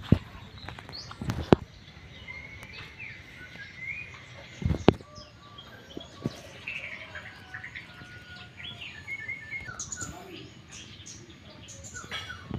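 Small birds chirping in short, scattered calls, with a few sharp knocks near the start and again about five seconds in.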